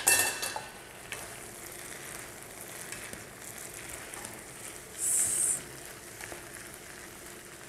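Sliced mushrooms frying in a hot pan, sizzling steadily as they are stirred and turned with two spatulas. A clatter right at the start, and a brief louder hiss about five seconds in.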